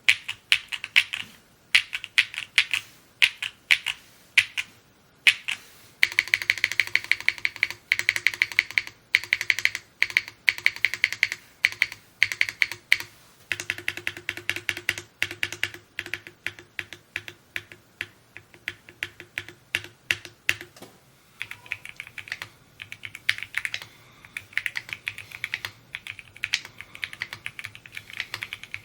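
Fast typing on a Mode Encore 2 mechanical keyboard, several keystrokes a second. The sound of the keys changes about six seconds in, again about halfway through and again about two-thirds of the way through, as different switch, keycap, foam or mounting setups are typed on. A faint steady hum runs under the middle stretch.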